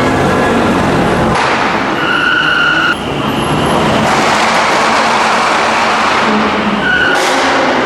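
Cars driving in with their engines running loudly, with a short high squeal about two seconds in and again briefly near the end.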